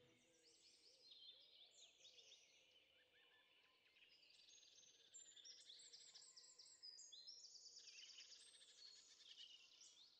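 Faint birdsong: several birds chirping high, with quick runs of repeated notes growing busier about halfway through.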